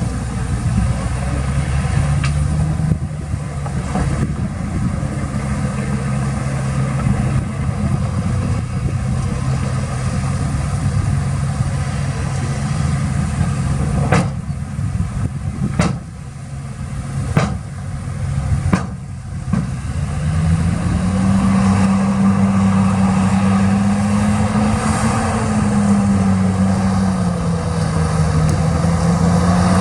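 Heavy diesel engine of earthmoving equipment running under load. A few sharp knocks come just past the middle, and then the engine revs up and holds at higher revs.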